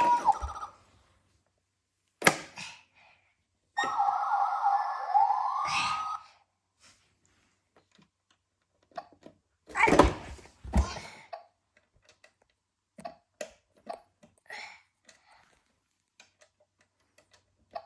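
Plastic toy being handled: a sharp knock, then about two seconds of an electronic toy sound effect with a rising tone, followed by heavy thumps and scattered small clicks.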